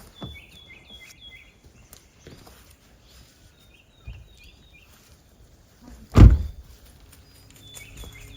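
A small bird chirping in three quick runs of short, high notes, with a few soft knocks and one heavy thump about six seconds in.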